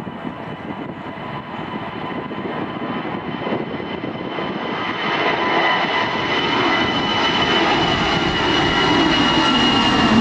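Twin-engine jet airliner on its takeoff run, engine noise building steadily louder, with a high fan whine over a deep rumble.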